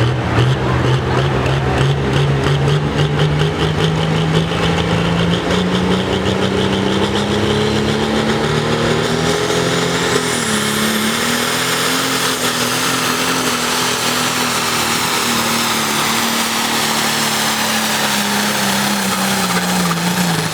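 John Deere pulling tractor's engine under full load dragging the weight sled, its pitch climbing steadily through the first half and holding high. A high whine rises about halfway in, and the engine note falls away near the end as the run finishes.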